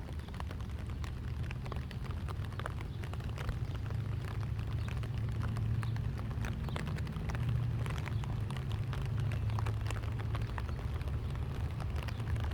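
Rain falling, with scattered raindrop ticks, over a low steady rumble.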